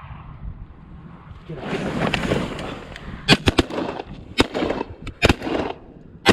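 A volley of shotgun fire from several hunters shooting at incoming waterfowl: about half a dozen sharp blasts over roughly three seconds, some nearly on top of each other, each with a short echo. They are preceded by a second or so of rushing noise.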